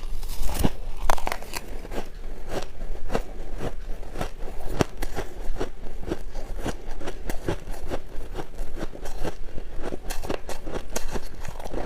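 Shaved ice being bitten and chewed close to the microphone: a continuous run of sharp, crisp crunches and crackles, several a second.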